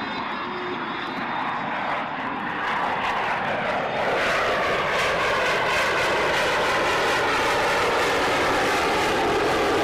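Military jet aircraft flying a low pass. The engine noise swells about four seconds in and stays loud, with a shifting, phasing sound as the aircraft moves past.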